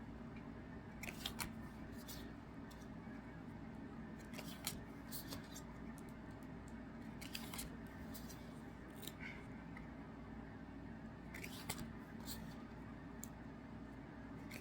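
Faint, irregular soft clicks and rustles of trading cards and their packaging being handled and flipped through, over a low steady room hum.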